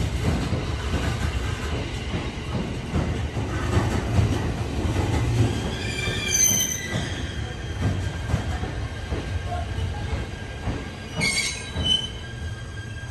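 A train rolling slowly through the station: a steady low rumble with repeated wheel clacks over the rail joints and points. High-pitched wheel squeals come about halfway through and again near the end.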